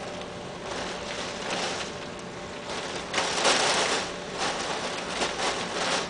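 Heavy rain beating on a window, swelling and easing in several gusts, loudest a little past halfway through.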